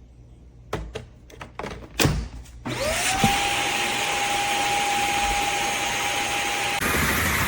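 A few handling clicks and knocks, then the Shark Clean & Empty vacuum is switched on: its motor spins up with a rising whine that settles into a steady pitch over a loud rush of suction air. Near the end the whine drops out and the airflow changes, still running loudly.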